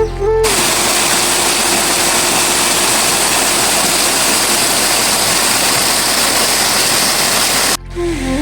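Steady, loud rush of water noise, cutting in abruptly about half a second in and cutting off abruptly near the end. Flute music plays briefly on either side of it.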